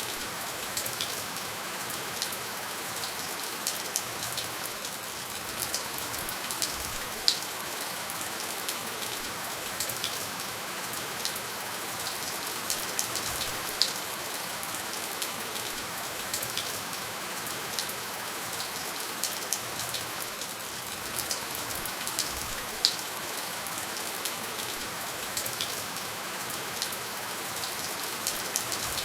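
Steady rainfall with no thunder: an even hiss of rain with scattered sharp drops ticking on a surface at irregular moments.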